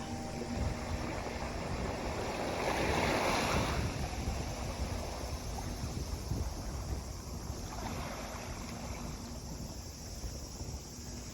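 Sea waves washing onto the beach, one wash swelling up about three seconds in and a smaller one near eight seconds, over a steady low rumble of wind on the microphone.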